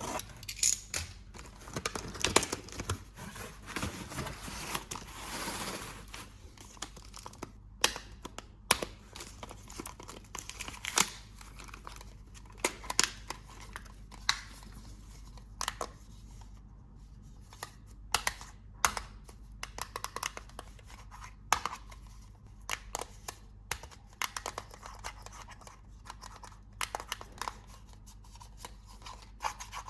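Toy packaging being opened by hand: a few seconds of tearing and crinkling, then scattered sharp clicks and taps as pieces are handled.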